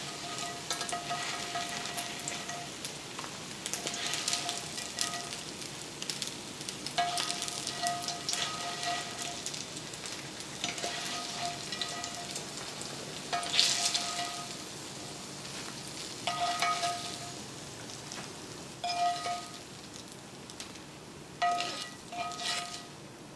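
Okra frying in hot oil in a skillet, sizzling steadily, while the pieces are scooped out in about eight separate scraping strokes, each with a brief ringing note.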